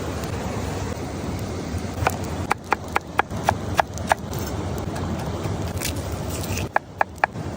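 Steady rushing of a mountain waterfall, with sharp taps over it: a quick run of about seven in the middle and three more near the end.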